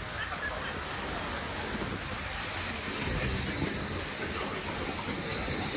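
City street ambience: a steady wash of traffic noise with indistinct voices of passers-by.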